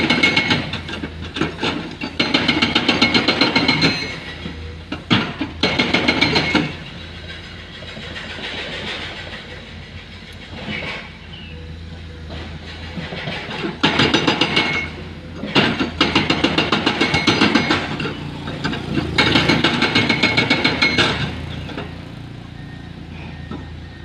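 Hydraulic breaker on a Komatsu excavator hammering rock in runs of rapid blows, each a second or three long with pauses between, over the steady running of the excavator's diesel engine.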